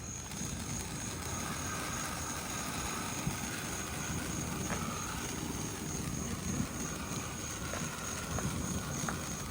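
Pyro Demon 500-gram 'Unbelievable' fountain firework burning with a steady rushing hiss, a few faint crackles, and crickets chirping underneath.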